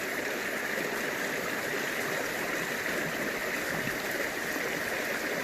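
Mountain creek water rushing and splashing over rocks close to the microphone, a steady, even rush.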